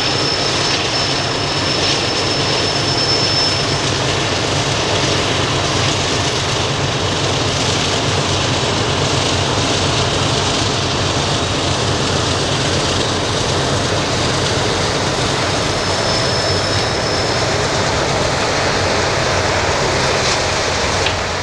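Loaded Union Pacific coal train rolling past: a steady, loud rumble of the cars on the rails over a low diesel hum. A thin, high wheel squeal rings out briefly at the start and again for a moment near the end.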